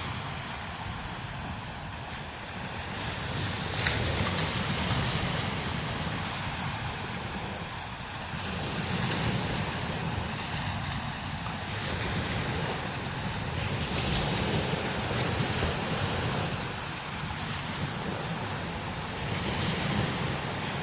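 Strong wind blowing in gusts that swell and ease every few seconds, with a deep rumble beneath a hissing top.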